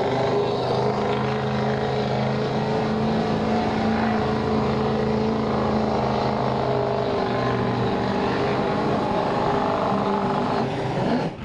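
Truck engine running at a steady speed, a constant hum with no revving.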